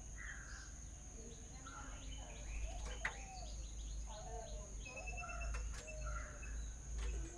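Several small birds chirping and calling, with short, overlapping notes sliding up and down, over a steady high-pitched whine. A few sharp clicks come in the middle and near the end.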